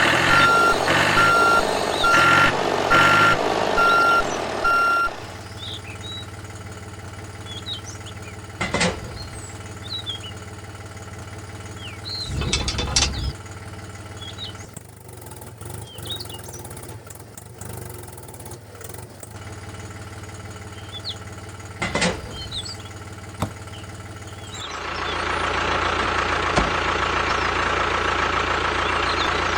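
An electronic reversing beeper sounds a string of short, evenly spaced beeps over the first five seconds. A steady hum follows, broken by a few short knocks, and grows louder and buzzier near the end.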